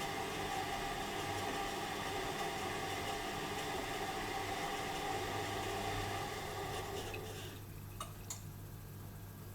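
Privileg Dynamic 4612 washing machine running with a steady hiss and hum. About seven and a half seconds in the hiss dies away, leaving a quieter low hum and two light clicks.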